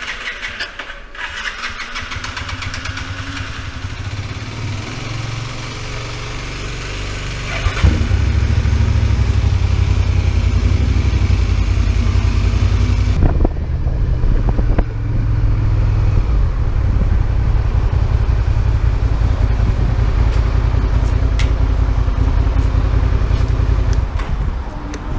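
Motorcycle engine starting and then running steadily at idle, with a sharp step up in loudness about eight seconds in.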